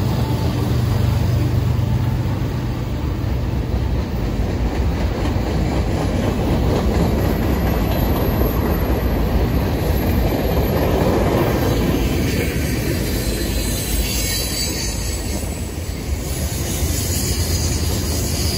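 Freight train cars (boxcars, then covered hoppers) rolling past at close range: a steady clatter and rumble of steel wheels on the rails. The locomotives' low engine hum dies away just after the start, and a higher wheel squeal comes in over the last few seconds.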